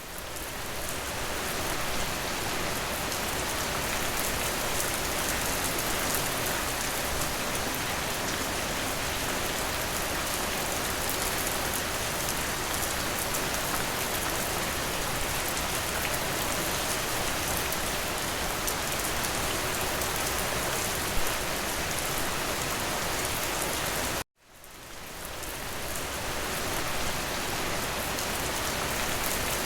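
Steady rain falling, an even hiss with no thunder. About 24 seconds in it cuts out suddenly and fades back in over about two seconds, the seam of a looped rain recording.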